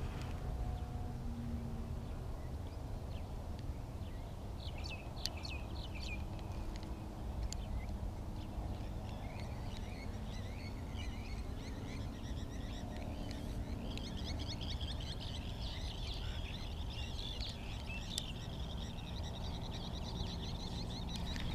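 Small birds chirping, scattered calls at first and then a fast, continuous run of twittering notes through the second half, over a steady low rumble.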